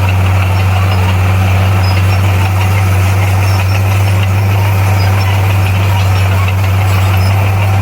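A bulldozer's diesel engine running steadily, with a deep, even hum.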